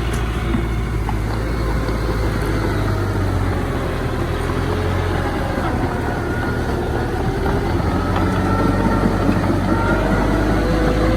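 Diesel engine of heavy earthmoving machinery running steadily, with a faint wavering whine in the second half.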